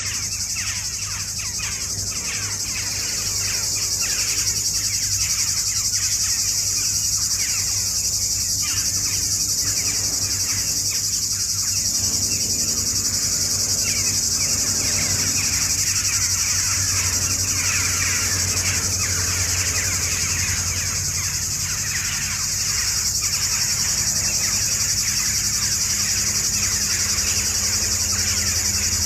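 A steady high-pitched insect chorus, like crickets, with many small birds chirping densely over it throughout.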